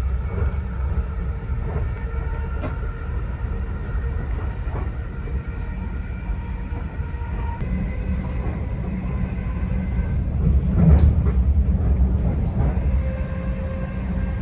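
Cabin running noise of a Greater Anglia Class 745 FLIRT electric train at speed: a steady low rumble with a faint steady whine above it, swelling briefly about eleven seconds in.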